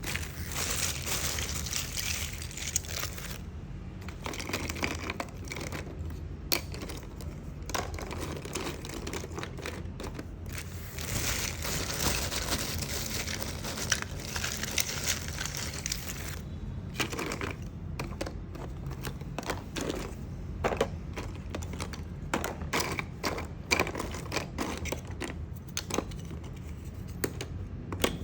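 Small hard pieces of agarwood being handled: irregular clicks and taps as they knock together, with several stretches of crinkling and rustling.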